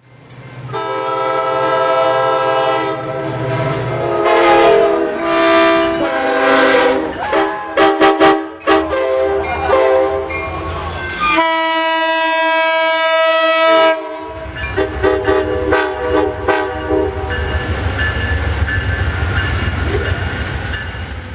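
Diesel locomotive horn sounding a chord in several blasts, the longest starting just past eleven seconds and lasting about two and a half seconds. It is followed by the low, steady rumble of the passing locomotives' diesel engines.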